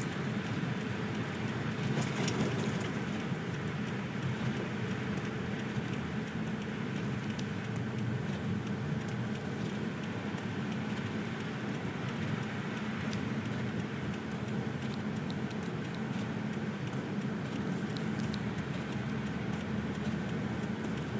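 Steady engine and road noise inside a moving car's cabin, driving on a snowy road, with a few faint ticks now and then.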